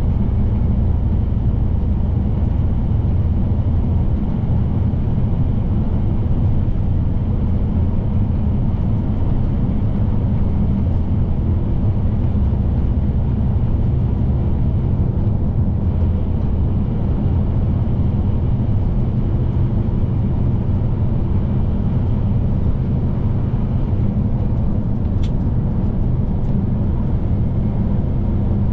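Scania P310 truck's diesel engine and road noise while cruising at highway speed: a steady low rumble that holds an even level throughout, with a single faint click late on.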